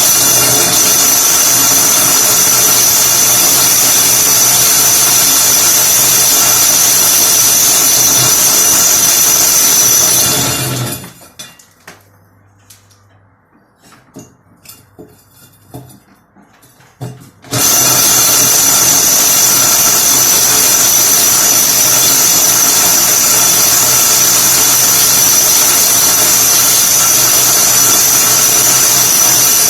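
Electric drill boring into a wall, running loud and steady with a high whine. It stops about a third of the way in, with a few small knocks during the pause, then starts drilling again.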